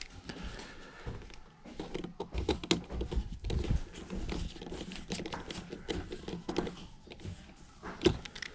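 Scattered small clicks, taps and rustling of hands working with small parts and wires while a thermostat is fitted, with a few low thumps.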